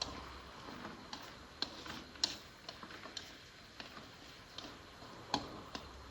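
Scattered light clicks and taps at irregular intervals, with the clearest a little over two seconds in and another about five seconds in.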